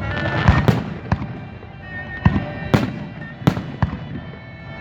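Fireworks going off in an irregular series of sharp bangs, about seven in under five seconds, with music playing underneath.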